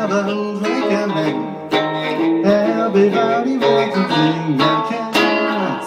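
Acoustic guitar strummed, a chord struck about once a second, with a voice singing wavering notes along with it.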